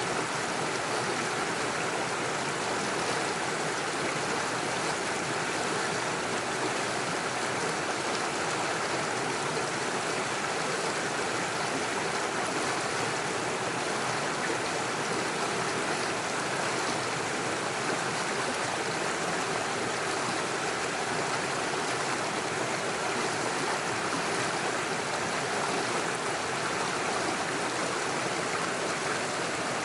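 Small forest stream running over stones and small waterfalls: a steady rushing and splashing of water.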